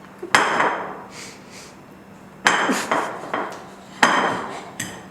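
A metal whisk knocks hard against a mixing bowl three times, about a second and a half apart, each strike ringing briefly, with quieter scraping between, as it works stiff butter that keeps clogging the whisk.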